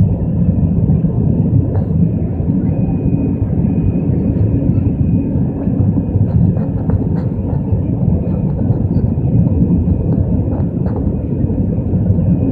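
Steady low roar inside an Airbus A320's passenger cabin: jet engine and airflow noise, with a faint high whine above it.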